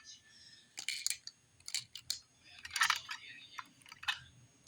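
Cars 2 Mater toy cars being handled and set down on a surface: a scattering of light clicks and clatters, with a longer rattling scrape about three seconds in.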